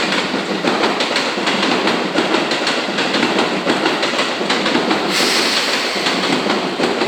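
Seibu 30000 series electric train running past, a dense rolling rumble with wheels clicking over the rail joints. A high hiss joins about five seconds in.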